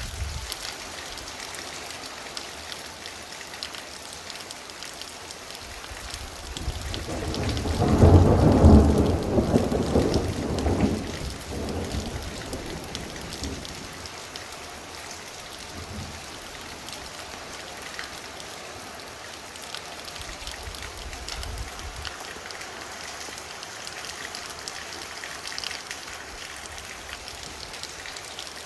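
Heavy rain falling steadily, with one roll of thunder that swells a few seconds in, peaks as the loudest part, and dies away over several seconds.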